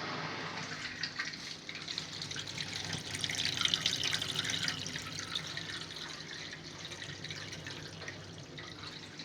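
Water rushing and splashing inside a Bosch Maxx 5 washing machine during its test run, over a steady low hum from the machine. The sound swells a few seconds in and then slowly eases off.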